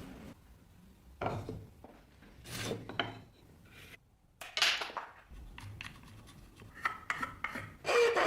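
A hand file scraping in separate strokes, a few seconds apart at first and closer together and louder near the end, where a ringing tone comes in.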